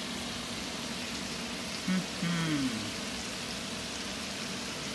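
Steady sizzle of shrimp frying on a griddle, with a short voice sound about two seconds in.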